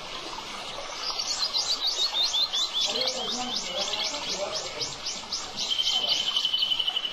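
A songbird singing a long run of rapid high notes, about five a second, the run sliding down in pitch over several seconds, followed near the end by a steady high even trill.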